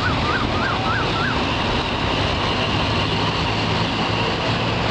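Passenger train running through the station with a loud, steady rumble, and a short warbling tone repeating about four times in the first second.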